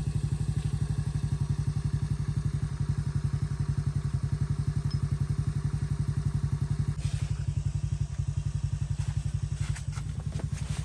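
An engine running steadily at idle, a low hum with a fast, even pulse.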